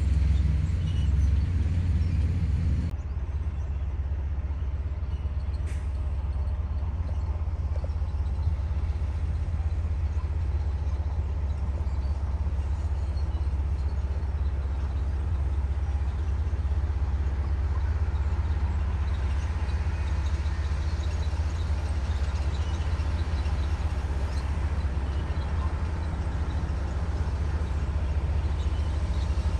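Komatsu D58E bulldozer's diesel engine running steadily with a deep, low rumble, a little quieter after about three seconds.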